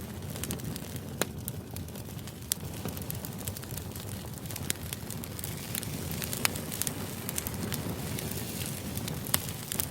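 Crackling fire white noise: a steady low rumble with irregular sharp crackles and pops.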